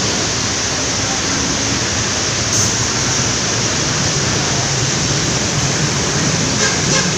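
Steady, loud roar of city traffic, with a short hiss about two and a half seconds in.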